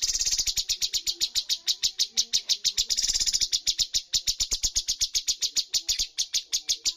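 Cucak cungkok songbird singing a rapid-fire 'tembakan' burst: a fast, even run of short, high, sharp notes at about nine a second, held without a break.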